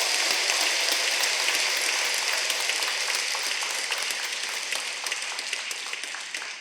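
A large crowd applauding: dense, steady clapping from many hands that slowly dies away near the end.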